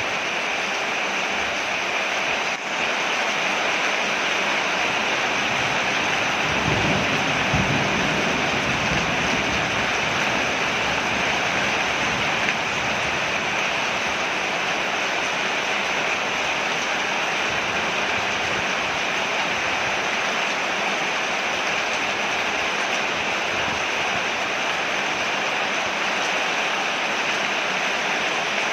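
Rain falling on a porch, a steady even hiss, with a brief low rumble about seven seconds in.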